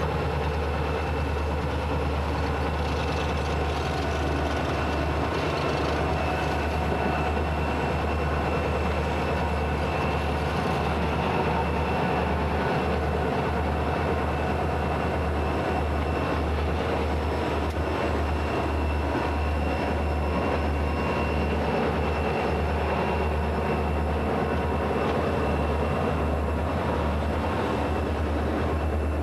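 Freight train moving, its cars rolling with a steady rumble and a rhythmic clatter over the rail joints.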